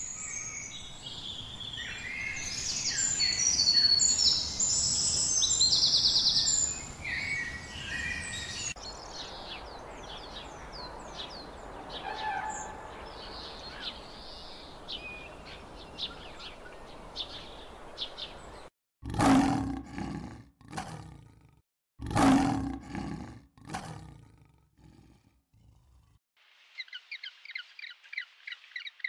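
Several bird calls and chirps, then two loud, roar-like animal calls about two-thirds of the way through, then a fast, even run of high chirping near the end.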